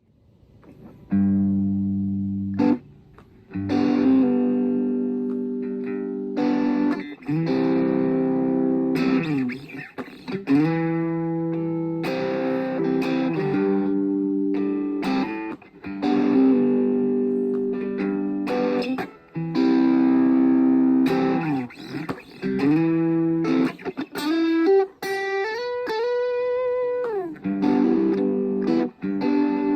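Washburn Sonamaster guitar playing chords that ring out one after another, with sliding notes between some of them.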